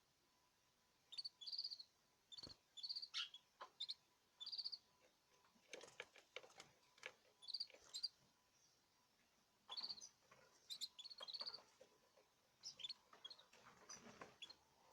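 Caged birds giving short, high chirps in quick clusters, with a few light clicks in between.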